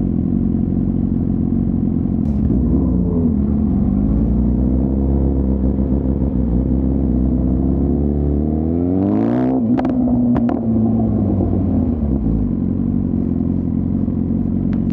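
2024 BMW S1000RR's inline-four engine running steadily, its pitch dipping briefly about two seconds in. Around eight seconds the revs climb sharply, a few sharp cracks sound at the top, and it settles back to a steady lower note.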